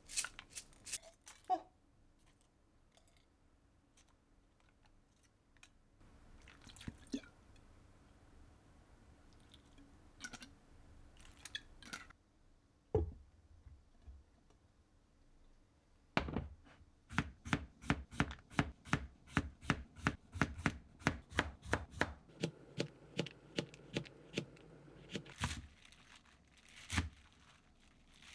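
Knife chopping on a cutting board: a few scattered knocks and clicks, then about halfway through a quick, even run of strokes, about three or four a second, lasting some nine seconds.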